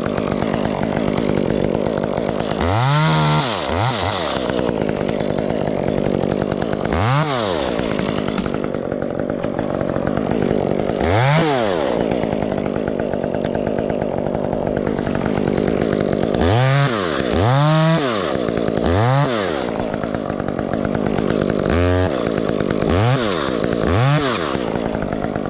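Chainsaw engine idling, revved up briefly about ten times, each rev rising in pitch and dropping back to idle within a second.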